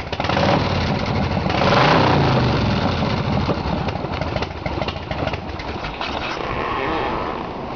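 Custom pro street motorcycle's 110 cubic inch RevTech V-twin running through an Arlen Ness exhaust, revved up about two seconds in and then settling back to idle.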